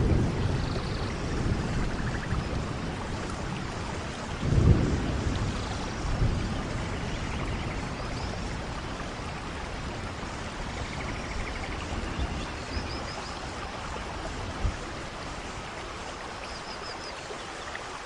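Steady hiss of rain, with low rumbles at the start and again about four and a half and six seconds in.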